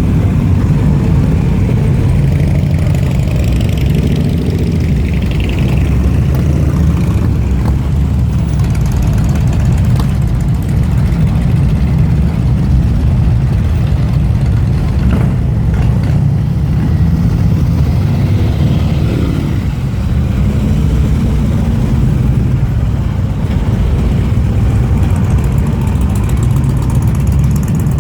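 Motorcycle engine running steadily at low revs, with no clear revving.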